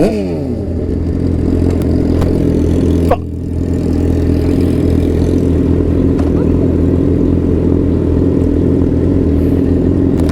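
Sportbike engine, its revs falling right at the start and then running steadily at an even pitch, with a brief break in the sound about three seconds in.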